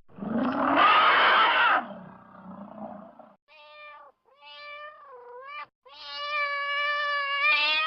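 A loud, rough, noisy animal call lasting about two seconds, then a cat meowing three times, each meow bending in pitch, the last one long and drawn out.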